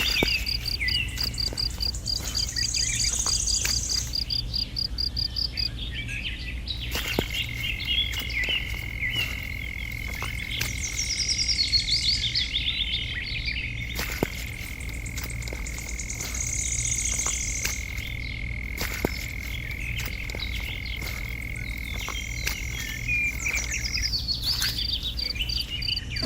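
Outdoor animal chorus of repeated high chirping calls, birds or frogs, over a steady low hum. A long, even high-pitched trill runs through most of the middle.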